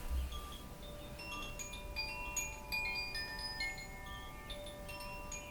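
Chimes ringing, like wind chimes: many small bright notes struck at random and overlapping, over a few longer tones that hang on.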